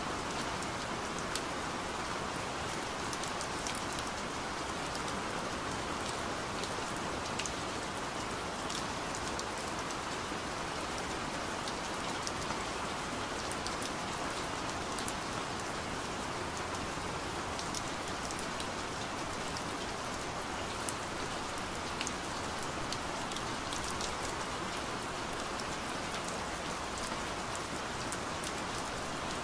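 Steady rain: an even hiss of rainfall with scattered sharp ticks of single drops.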